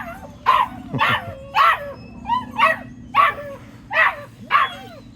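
Puppy yipping and barking in short, high, repeated yelps, about two a second, over a steady low hum.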